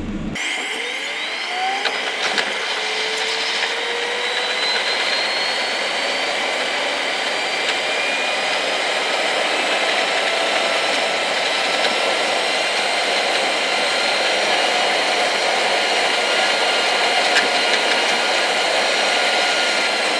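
Electric train running, with a motor whine that rises in pitch over the first few seconds as it picks up speed, then holds steady over the rumble of the ride.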